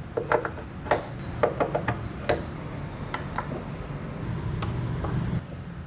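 A series of sharp knocks and clicks, loudest about a second in and just after two seconds, over a low steady rumble that cuts off suddenly about five and a half seconds in.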